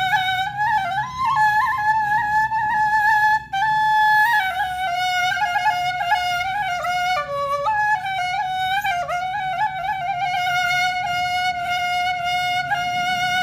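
Background music: a flute playing a single ornamented, wavering melody over a low hum, with a brief break about three and a half seconds in.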